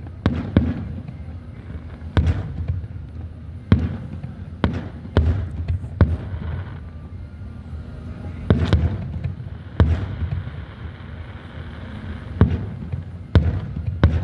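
Aerial fireworks bursting overhead: a string of about a dozen sharp booms, one every second or two, each trailing off in a rumbling echo.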